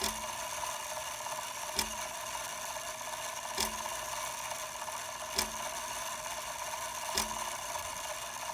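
Seth Thomas 89C clock movement running its hour strike with the gong removed: the strike hammer falls with a sharp click about every 1.8 seconds, five times, over a steady hum.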